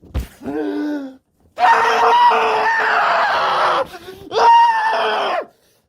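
A man screaming in a wordless rage: a short cry, then a long, strained scream of about two seconds and a second, shorter one.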